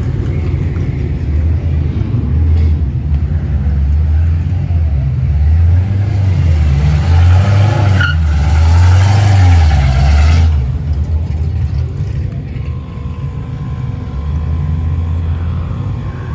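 Autocross cars' engines rumbling deep and revving up and down. One gets much louder for a few seconds, with a rush of noise over the engine note, and drops away suddenly about ten seconds in, leaving a steadier engine rumble.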